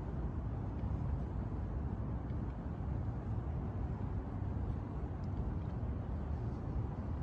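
Steady low outdoor rumble of night-time city ambience, with no distinct events standing out.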